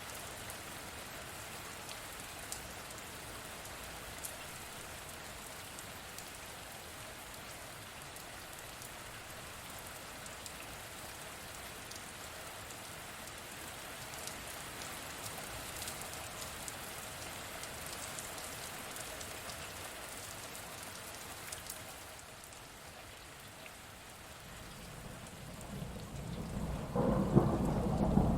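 Steady rain falling, with a rumble of thunder that builds about three-quarters of the way through and grows loud near the end.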